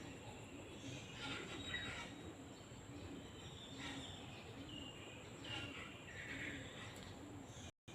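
Several birds chirping and calling in short repeated phrases over a steady background hiss, with a continuous high-pitched insect-like tone. The sound cuts out completely for a moment at the very end.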